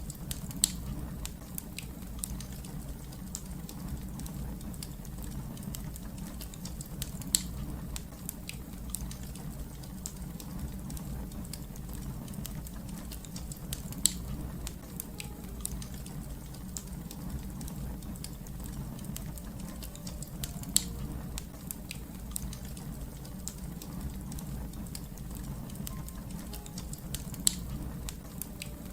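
Crackling fire: a steady low rumble of burning with constant small crackles and five louder sharp pops about every seven seconds.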